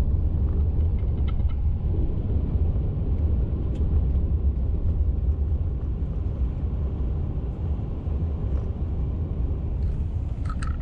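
Pickup truck driving along a rough, beat-up road: a steady low rumble of tyres and engine with a few faint rattles.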